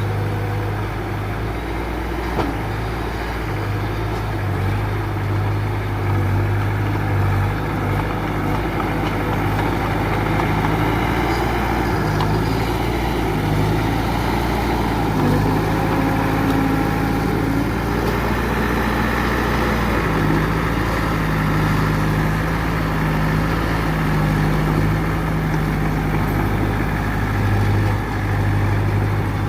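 Diesel engine of an earthmoving machine running steadily, its note shifting slightly now and then.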